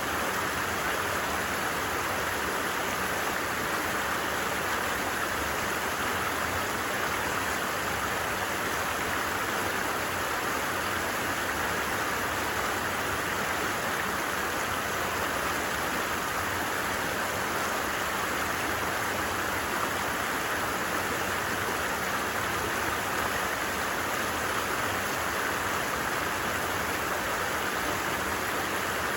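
A stream flowing and babbling at a steady, unchanging level.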